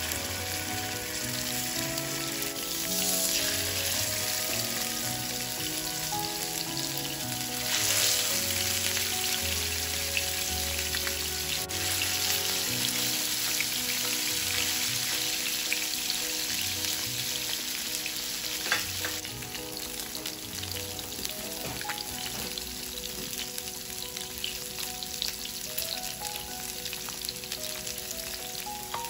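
Salmon fillets sizzling as they pan-fry in hot oil. The sizzle swells a few times in the first several seconds as more fillets are laid into the pan, then settles into a steady frying hiss.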